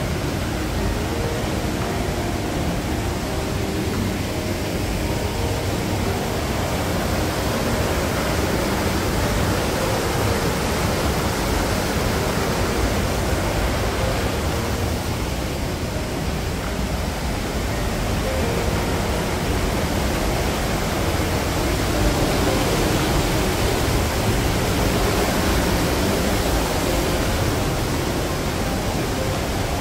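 Waterfall rushing: a loud, steady wash of water noise with no breaks.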